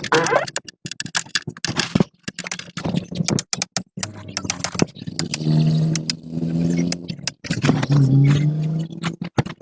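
A run of sharp clicks and knocks, then a machine hums in three short spells of about a second each, starting and stopping with brief gaps.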